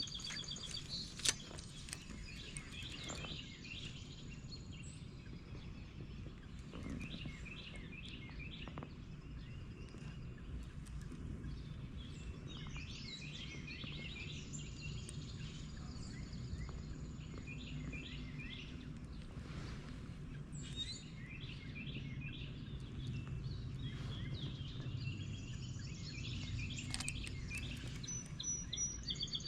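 Birds singing, with many short chirps and a few long high whistles, over a steady low outdoor rumble. A single sharp click about a second in.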